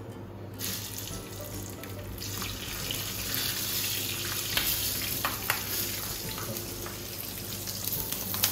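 Oil sizzling steadily on a flat tawa as green chillies fry. The sizzle starts within the first second and grows fuller about two seconds in, with a few light utensil clinks.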